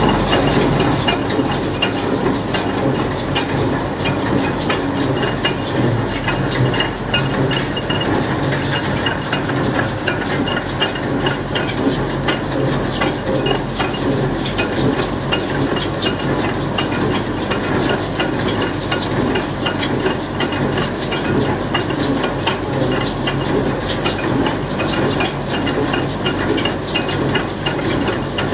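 Steyr 1400a tractor running with a Welger AP12 baler at work: a steady engine note under dense, fast rattling and clattering from the baler's mechanism.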